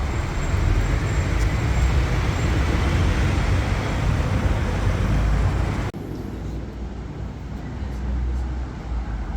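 Street traffic: car engines running and tyre noise from passing vehicles, dense and steady. About six seconds in the sound drops abruptly to a quieter, duller traffic hum.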